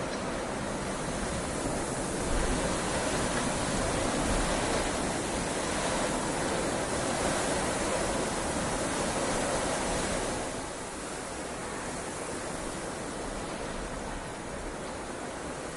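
Heavy rain falling in a steady hiss, swelling a little a couple of seconds in and easing slightly about two-thirds of the way through.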